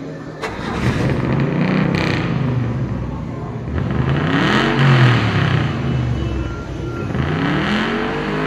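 Twin big-block Chevy V8 engines of a hot rod running and being revved, the pitch rising and falling back twice in the second half.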